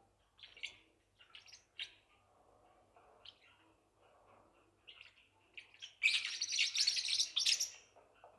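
Newborn Forpus parrotlet chicks giving short, high chirps one after another, then a loud burst of rapid chirping from several chicks at once for nearly two seconds near the end.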